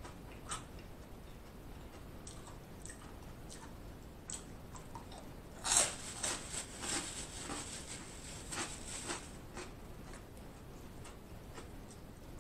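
A person chewing food, with scattered wet mouth clicks and smacks and one louder smack about six seconds in.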